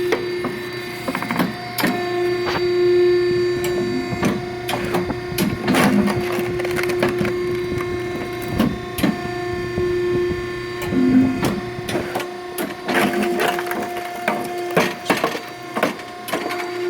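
Automatic firewood splitter running: a steady motor hum with irregular cracking and knocking as wood is split.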